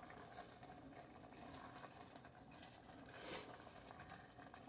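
Near silence, with the faint bubbling of a cream sauce simmering in a skillet. There is one brief soft hiss about three seconds in.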